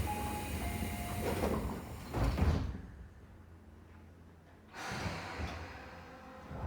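Train's sliding passenger doors closing, ending in a heavy thump about two and a half seconds in. The carriage then goes quieter for a couple of seconds before the noise rises again near the end.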